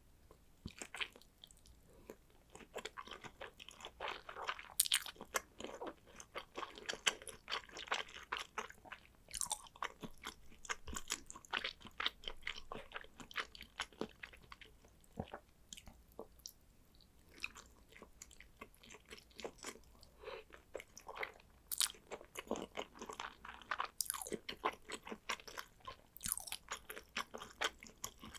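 Close-miked chewing of salmon sushi: wet, smacking mouth sounds and dense quick clicks as the rice and raw salmon are bitten and chewed, with a brief lull about halfway through.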